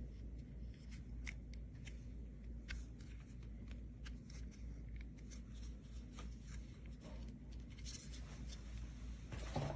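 Faint scattered clicks and light rustling, as of small objects being handled, over a low steady hum.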